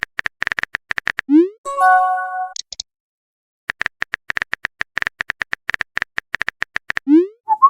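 Phone keyboard tap sounds clicking in quick runs as a message is typed, broken about a second and a half in by a short rising pop and a brief bright chord, the message-sent sound; another rising pop comes near the end.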